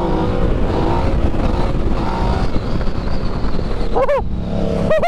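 Sport motorcycle engine pulling hard under full throttle in a high gear, with heavy wind rush over the helmet microphone.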